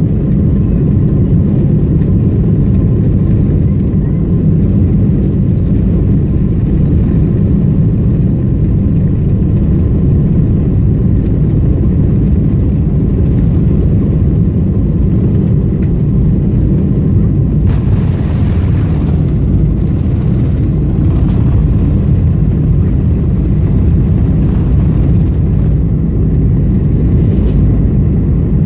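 Boeing 747-400 cabin noise heard from an economy window seat: the jet engines and airflow make a loud, steady low rumble with faint steady whining tones above it. A brief hiss rises over it about two-thirds of the way through.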